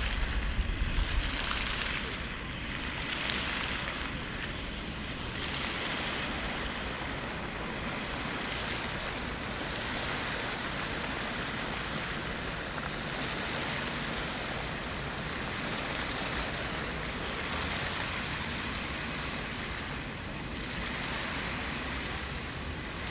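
Fountain water splashing in a steady rush, with a brief low rumble in the first second.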